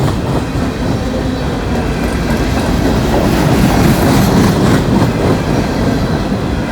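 A long freight train's cars rolling past close by: a steady, loud rumble and clatter of steel wheels on the rails.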